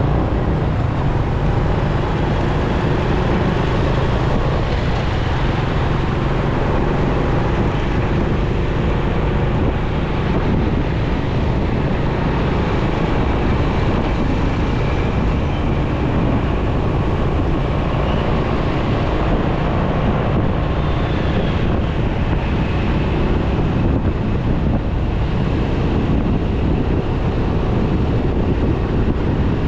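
Motorcycle running steadily in road traffic, with wind rushing over the microphone. The noise stays even throughout, with no sharp events.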